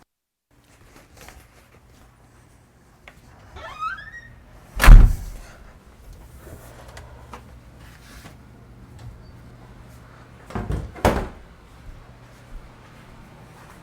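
A door creaking open with a short rising squeak, then a loud thud as it shuts about five seconds in; a double knock follows near the end, over a steady low hum.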